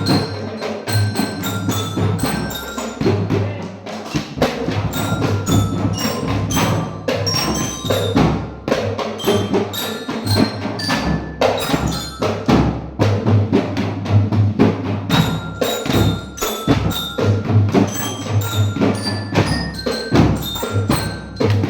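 A percussion ensemble playing music: tuned metal bars struck with mallets in quick runs of ringing notes, over drums and a low, steady part.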